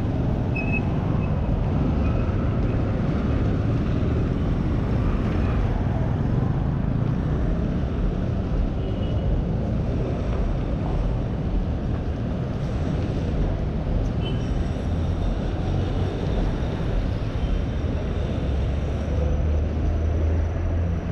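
Steady city street traffic noise: a constant low rumble under an even hiss, with a few faint, brief high tones.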